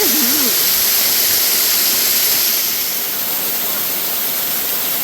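Waterfall rushing steadily, a loud, dense roar of falling water that eases slightly a little past halfway.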